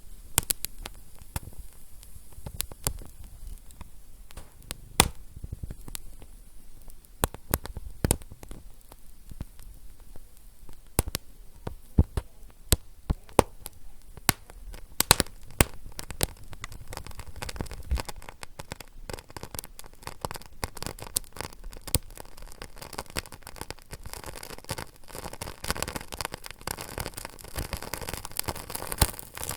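Wood fire crackling: irregular sharp pops and snaps over a low steady hiss, growing into a denser, fizzing crackle near the end.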